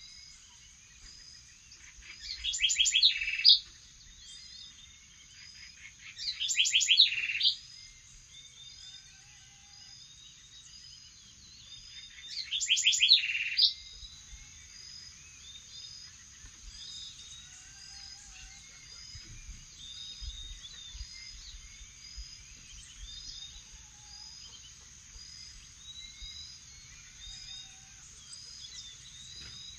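Morning bird chorus: three loud, rapid trilled calls about 3, 7 and 13 seconds in stand out over many softer, regularly repeated chirps and a steady high-pitched hum.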